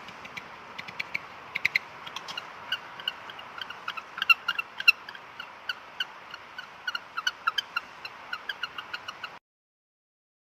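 An animal's rapid, short, high squeaky calls, several a second at an irregular pace, over a steady hiss. They stop suddenly about a second before the end.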